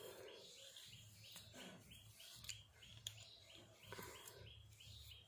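Near silence with faint, rapid bird chirping in the background, about four short chirps a second, over a low hum.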